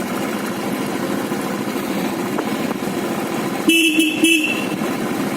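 Steady motorcycle engine and road noise while riding, cut by a short vehicle horn honk, given in two quick blasts, a little before the end.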